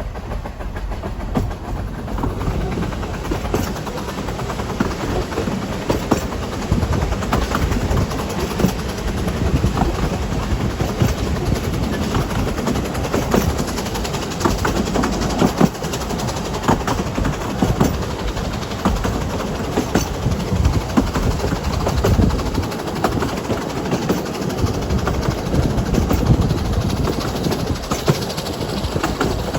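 Ffestiniog Railway narrow-gauge train running on the line: a steady rumble of wheels on the track with frequent clicks and knocks.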